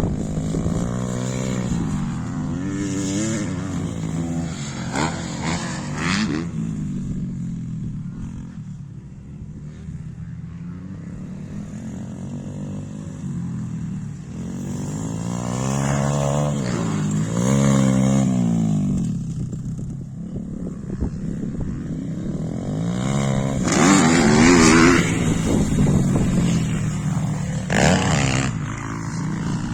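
YCF 125 pit bike's single-cylinder four-stroke engine being ridden hard, its pitch climbing and falling again and again as the throttle is opened and closed. There are louder surges midway and again near the end, with a quieter stretch in between.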